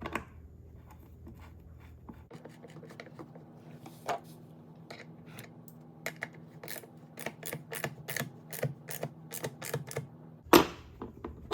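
A series of sharp metal clicks and taps from hand-tool work on the electric chainsaw's bar and nut, coming quicker near the end, then a loud knock about ten and a half seconds in. A steady low hum runs underneath through most of it.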